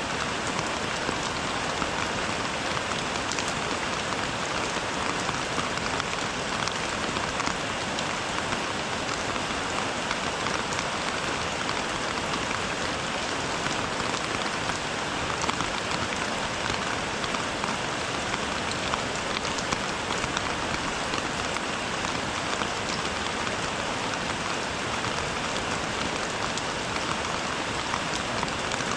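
Steady rainfall: an even hiss of many drops with small individual drop impacts scattered through it, unchanging throughout.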